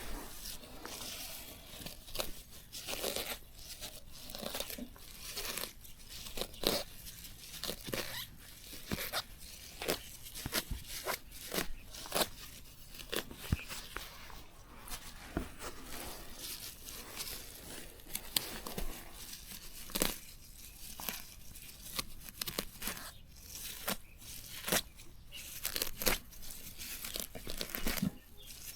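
Leafy plants being torn and pulled by hand, a steady run of irregular tearing and crinkling strokes, several a second.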